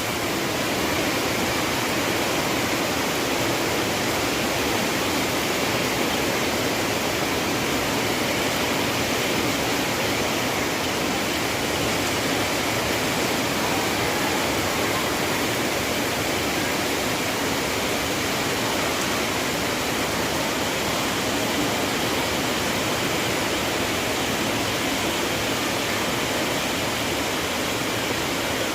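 Heavy rain pouring down, a dense, steady rush that never lets up.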